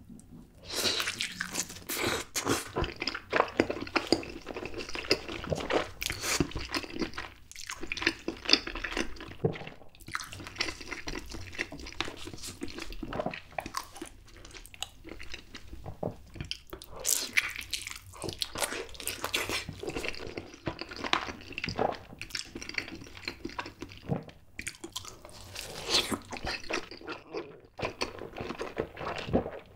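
Close-miked wet chewing and lip-smacking of mouthfuls of whole Spam dipped in nacho cheese sauce, a dense run of moist clicks broken by a few brief pauses between bites.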